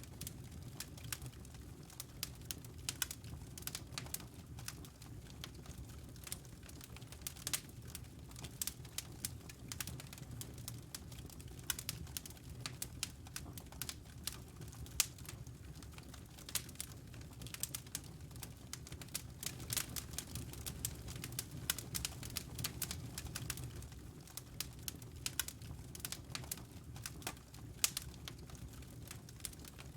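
Wood fire crackling in a fireplace: many irregular small pops and snaps over a steady low rumble of the flames.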